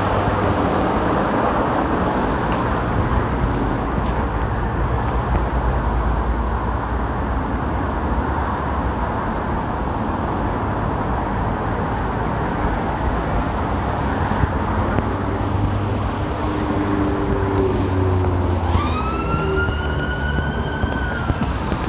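Busy road traffic: engines and tyres running steadily. Near the end a siren wails once, rising, holding for a couple of seconds and then falling.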